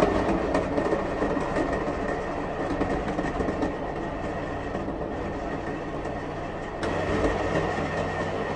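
Countertop blender running, its motor whining steadily over the churn of chopped carrot, beetroot, mango and passion fruit in water. It is loud. About seven seconds in it briefly dips and then comes back stronger.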